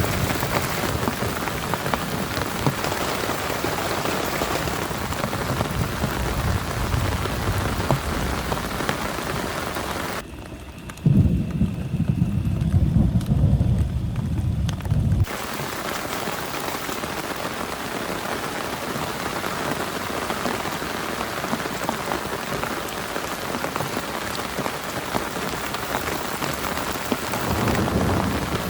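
Heavy rain falling steadily in a dense hiss, with low rolls of thunder. About ten seconds in, the rain hiss drops away and a loud, deep thunder rumble takes over for about four seconds, then stops abruptly as the rain returns.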